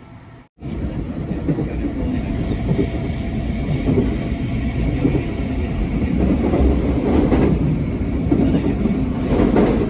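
Train running on the rails, a loud steady rumble that comes in suddenly about half a second in and swells a little toward the end.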